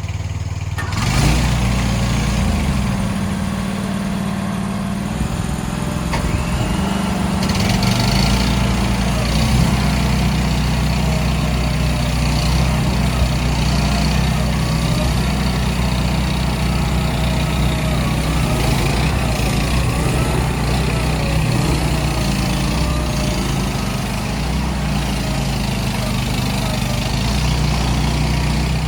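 CFG Industrial MX20R mini excavator's 420 cc gasoline engine running steadily. A faint whine wavers up and down in pitch through the middle stretch.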